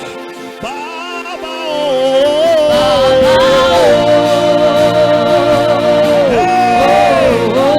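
Gospel worship music: a solo voice sings long, sustained notes that slide up and down, over steady held chords from an accompanying instrument.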